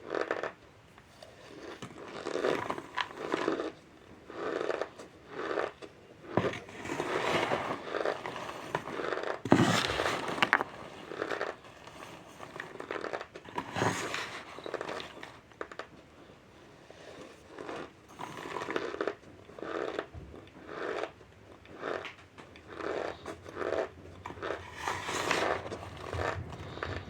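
Someone biting into and chewing chunks of cornstarch: a long run of crisp, irregular crunches.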